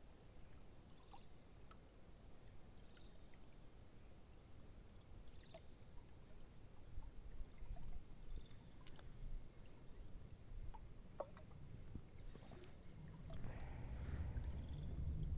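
Faint, steady high-pitched insect chorus, with scattered small clicks and a low rumble that grows louder near the end.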